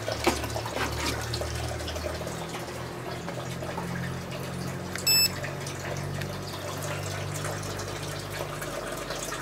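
Water from the aquaponic system running and splashing steadily, over a low steady hum. One short electronic beep sounds about five seconds in.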